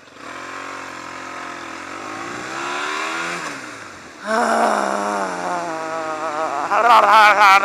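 Yamaha XJ600 motorcycle's inline-four engine accelerating: the revs climb for about three seconds, drop at a gear change, then pick up again, louder, from about halfway. Short bursts of noise near the end are the loudest part.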